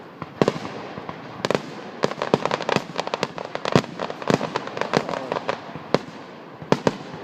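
Fireworks going off: a few single sharp bangs, then a dense rapid volley of bangs and crackles in the middle, easing back to single reports near the end.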